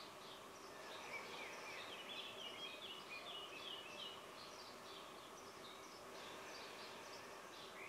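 Faint birds twittering: a run of quick, short chirps between about one and four seconds in, with a few more scattered later, over a steady low hiss of room noise.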